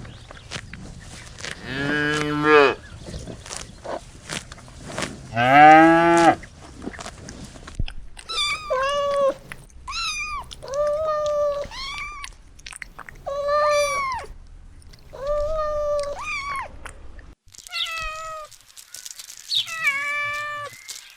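Animal calls: two long, low calls that rise in pitch in the first seven seconds, then a string of shorter, higher-pitched cries, each rising and falling, coming about every second and a half. The background noise drops away suddenly near the end, and a few more of the higher cries follow.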